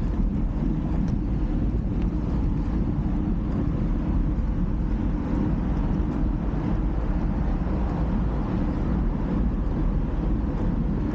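Steady low rumble of wind buffeting the camera microphone while riding, with road and motion noise underneath.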